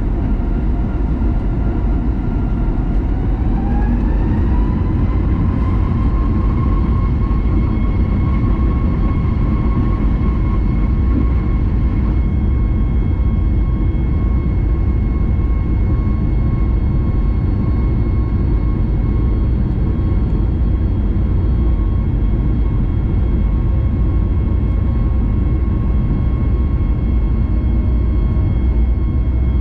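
Boeing 737 MAX 9's CFM LEAP-1B jet engines heard from inside the cabin during takeoff: a loud, steady roar with a whine that rises in pitch about four seconds in and then holds steady.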